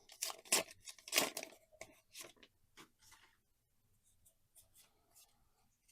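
Trading-card booster pack wrapper being torn open: a quick run of short crinkly rips over the first couple of seconds, then a few faint clicks of cards being handled.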